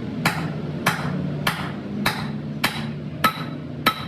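Hammer striking metal in a steady rhythm, about one and a half blows a second, seven blows in all, each with a short metallic ring.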